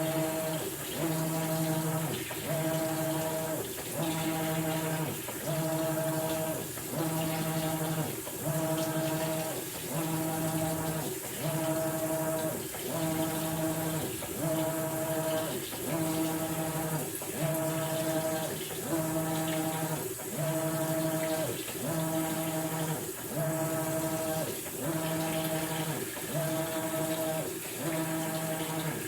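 Maytag Bravos XL top-load washer agitating a load of bedding in the wash phase: the drive motor hums in strokes about a second long, pausing briefly as it reverses, over water sloshing in the tub.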